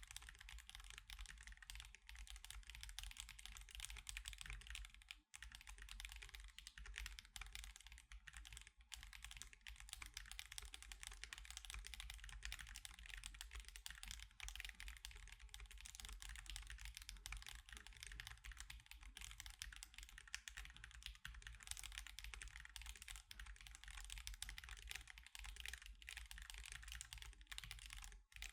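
Fast, continuous typing on an Akko Alice Pro mechanical keyboard with Akko CS Crystal linear switches and osumekeys Sakura and Mochi keycaps: a dense stream of keystroke clacks, with one brief pause about five seconds in.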